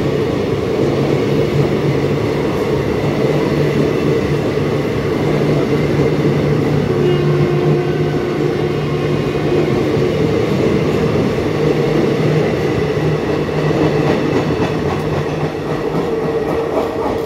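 Passenger train coaches rolling past a station platform: a steady, continuous noise of wheels running on the rails with a low hum. It eases slightly near the end as the last coach passes.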